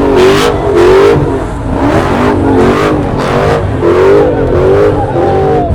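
Car engine being revved repeatedly, its pitch swinging up and down about once a second.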